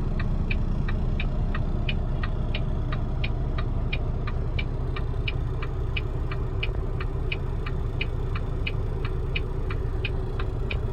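Semi truck's flasher relay clicking steadily, about three clicks a second in an alternating tick-tock, over the low drone of the idling diesel engine.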